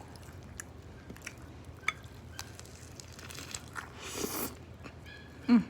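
Close-miked chewing of a turkey burger: wet mouth clicks and bites, with a longer rustle about four seconds in. A short falling hum of appreciation comes near the end.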